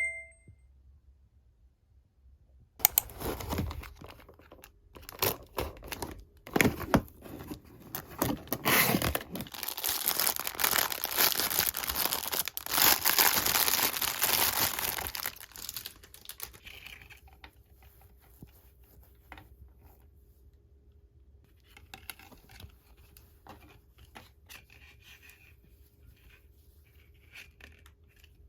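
Parcel packaging being torn open and crinkled by hand: a long stretch of tearing and rustling with sharp crackles, then quieter handling of the wrapping from about halfway on.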